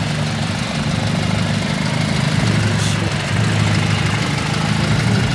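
Car engine idling steadily with an even low drone.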